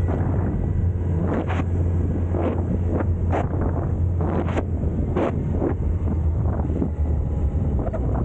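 Wind rushing over the microphone on a moving Suzuki Hayabusa motorcycle, with a steady low rumble underneath and frequent sharp, irregular gusts.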